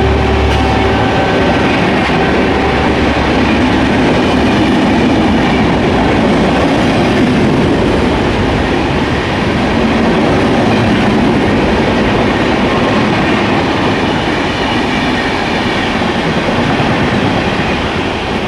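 A train passing at speed: the locomotive's low engine hum dies away in the first couple of seconds, then the cars rush past with a loud, steady rumble and wheel clatter on the rails, easing off near the end.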